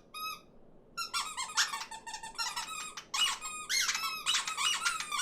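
High-pitched, sped-up cartoon bird voices: a flock of little animated birds peeping and squabbling over one another. A couple of short squeaks come first, then thick overlapping chatter from about a second in.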